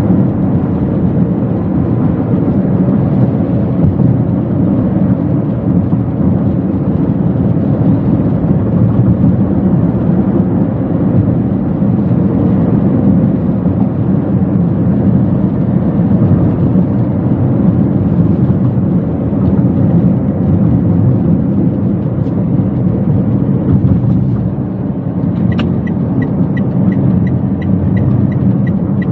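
Steady engine and road noise heard inside the cabin of a Toyota Wigo hatchback on the move. Near the end a click is followed by a quick, regular ticking.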